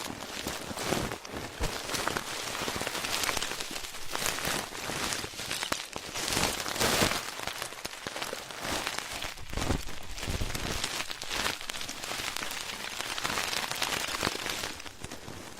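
Ear-cleaning ASMR: an ear pick scratching and rubbing at a microphone, giving a dense, continuous crackling that swells louder about halfway through.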